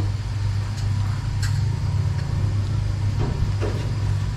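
Motorbike engine running with a steady low hum, a few light clicks and knocks over it.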